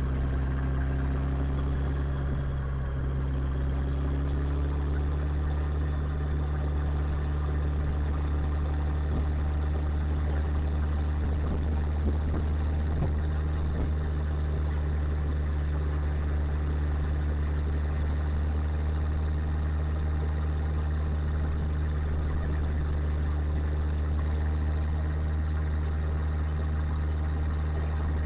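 Motorcycle engine running at steady revs, its note rising slightly in the first few seconds and then holding even.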